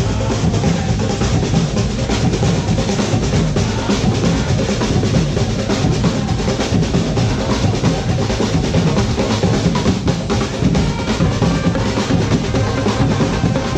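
Percussion-led music: drums, with bass drum and snare, playing a dense, continuous rhythm.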